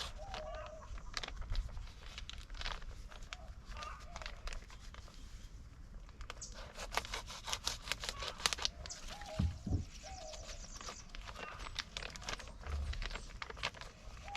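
Irregular rustling, crackling and snapping of leaves and plant material being handled, with a few footsteps.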